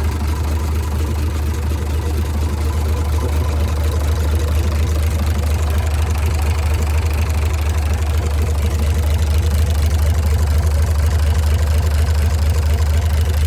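Hino H07D inline-six diesel engine idling steadily, with a deep even hum.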